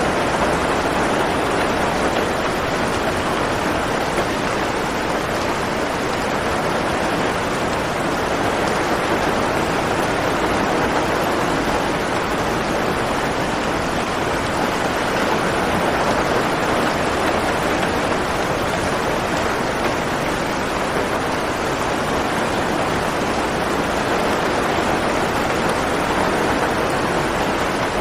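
Steady rain falling as an even, unbroken hiss of drops, with no thunder or single drips standing out.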